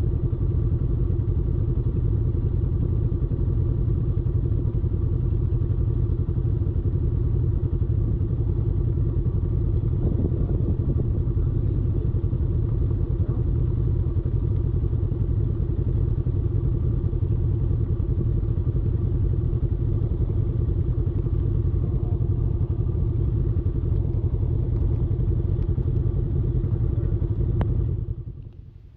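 Off-road vehicle engine running at a steady speed while riding, a constant drone over a heavy low rumble. The sound falls away sharply near the end.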